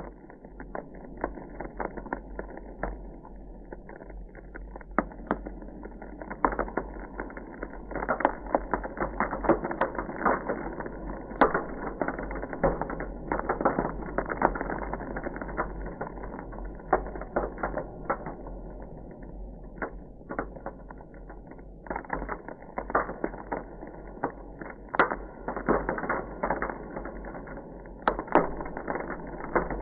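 Ice crackling: a dense, irregular run of sharp clicks, snaps and small cracks that never settles into a rhythm.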